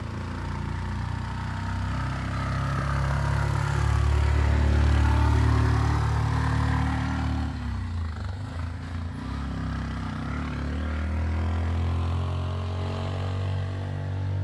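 Motor vehicle engine running close by, with the low hum of a small engine. It swells to its loudest about five seconds in, eases off, then grows louder again near the end.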